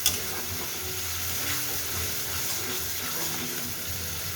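Spiced onion, ginger and garlic masala paste sizzling steadily in hot oil, frying until the oil separates from it.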